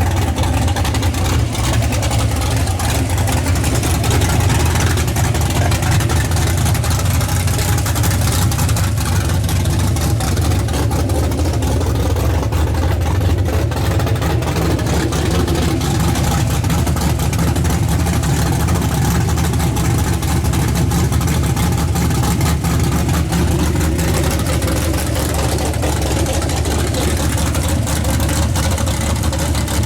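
Chevrolet S10 pickup's engine running steadily with a low drone, on a new MSD ignition and distributor. It is being tested for a popping misfire that shows only under load, which the owner suspects is low voltage.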